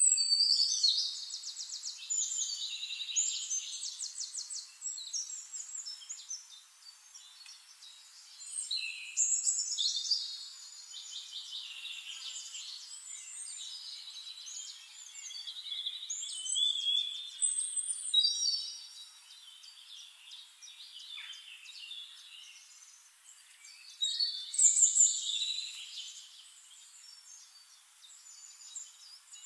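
Birds chirping and trilling in bursts of song every few seconds, with rapid trills and short high chirps and nothing in the low range.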